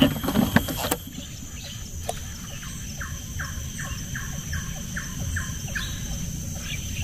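A freshly caught fish flapping on a wooden boat's plank floor, knocking a few times in the first second. Then a bird calls a run of short falling notes, about two or three a second, over a faint steady high tone.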